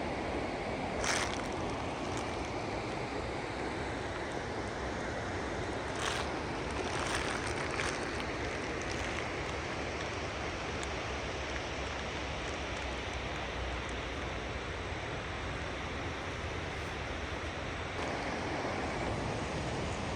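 Steady rushing noise of heavy rain and running water, with wind on the microphone. A few brief taps or knocks stand out, one about a second in and a few between six and eight seconds.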